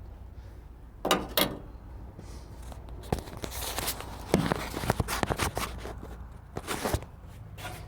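Clicks, knocks and scraping as a chrome oil filler cap is wrestled off a car engine by hand: two sharp knocks about a second in, a stretch of hissing rustle with many small clicks in the middle, and more knocks near the end.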